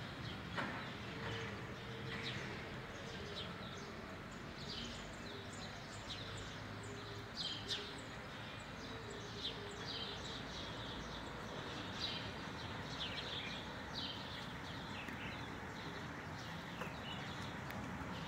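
Small birds chirping: many short, high chirps repeating over a steady background of outdoor noise.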